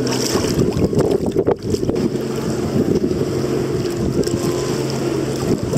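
An engine running at a steady speed, with wind buffeting the microphone.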